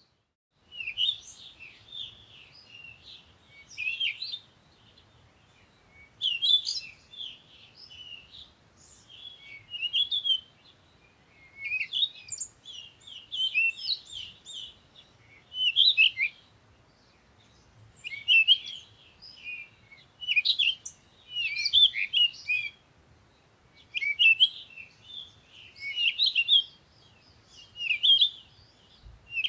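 Songbirds chirping and twittering in quick, high-pitched bursts about every two seconds, with short pauses between.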